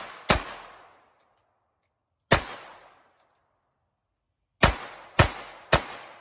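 Walther PPQ .22 LR pistol firing five shots, each with a short fading echo: one near the start, another about two seconds later, then three in quick succession about half a second apart near the end.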